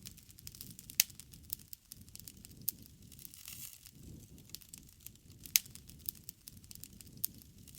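Wood fire crackling, with irregular sharp pops and two louder snaps, one about a second in and one past halfway, over a low rumble of flames.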